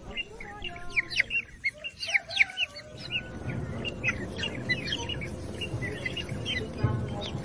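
Small birds chirping in quick, high, short notes, with a low rumble underneath from about three seconds in.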